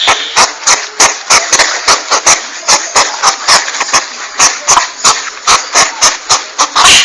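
Lure recording of a landak (porcupine): rapid sharp clicks, about three a second, over a steady hiss, with a louder hissing burst near the end.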